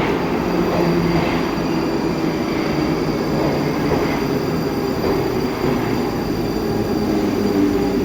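Steady running noise inside a 'Baltiets' metro car on the move: a dense rumble of wheels and running gear with a thin, steady high tone above it.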